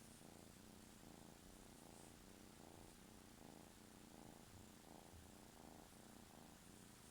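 Domestic kitten purring softly and steadily, the purr coming in an even rhythm of breaths in and out.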